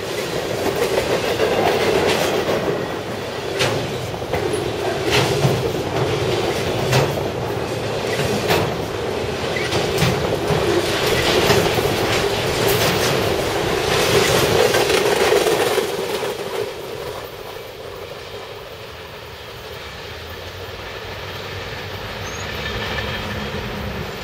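Freight cars of a passing CSX mixed freight train rolling by close up: a steady rumble of steel wheels on rail with sharp, irregular clacks as the wheels cross rail joints. About two-thirds of the way through it grows quieter and the clacks thin out as the train moves away.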